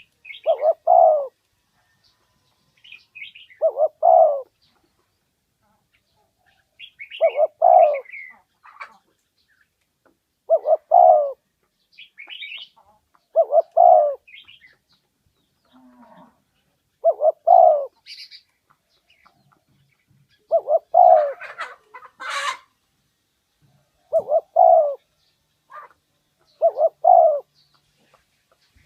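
Spotted dove cooing, repeating its calling phrase nine times at about three-second intervals. Small birds chirp faintly between the coos, and there is a brief rustle about two-thirds of the way through.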